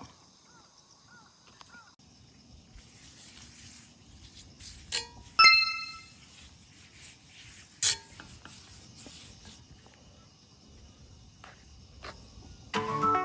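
Metal cookware and utensils clinking: a few sharp knocks, the loudest about five seconds in ringing briefly like struck metal, against a faint steady hiss.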